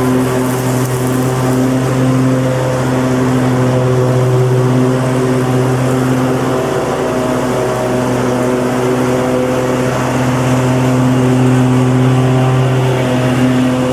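Lawn mower engine running steadily at constant speed, a continuous hum with a strong low tone.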